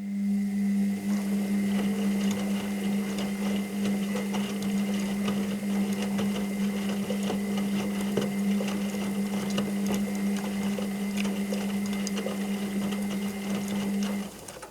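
Washing machine motor running as it turns the drum: a steady hum with irregular clicks and crackles over it, starting abruptly and stopping suddenly about fourteen seconds in.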